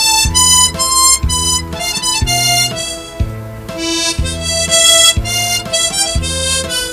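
Harmonica playing a melody over a backing track, with a steady low bass beat about twice a second.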